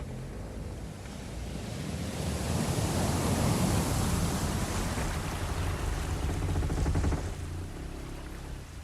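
Sea waves: a wash of surf swells up over a few seconds, then falls away fairly suddenly near the end.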